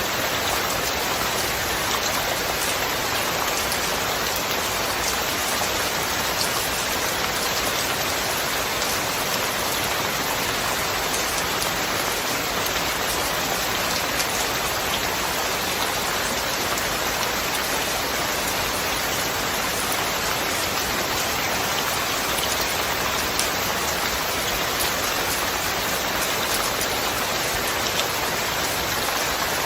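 Steady, dense rainfall with scattered drop ticks, an even hiss without thunder.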